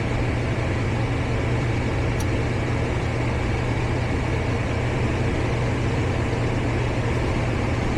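Gas furnace running on a call for heat, its draft inducer motor giving a steady whir with a constant low hum.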